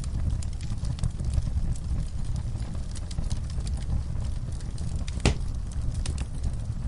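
Wood fire burning in an outdoor fireplace, crackling with frequent small pops over a steady low rumble. There is one louder pop about five seconds in.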